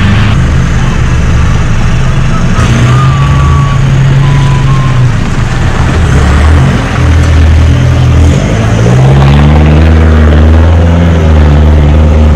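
Off-road 4WD's engine running under way on a dirt track, its pitch dropping and then climbing again with the throttle, over a steady rush of wind and tyre noise on an outside-mounted camera.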